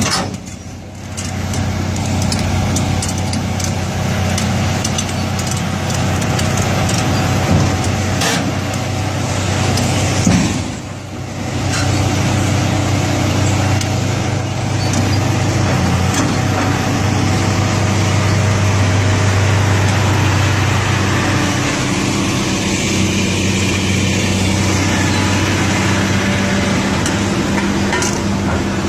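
Caterpillar excavator's diesel engine running steadily, with a few brief metallic clanks along the way.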